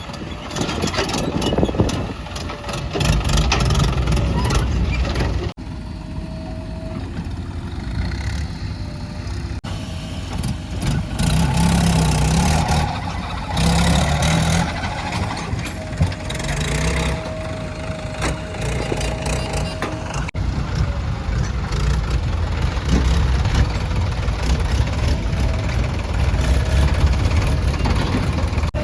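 Diesel engines of backhoe loaders and tractors running and working, with a thin steady whine at times. The sound changes abruptly several times.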